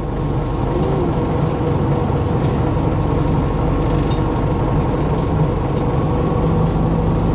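Fishing boat's diesel engine running steadily, an even low drone with no change in speed.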